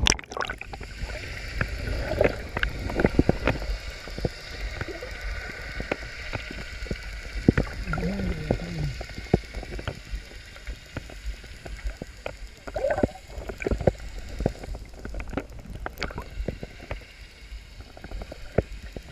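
Lake water splashing and sloshing close to the microphone, with many irregular knocks and taps over a low rumble.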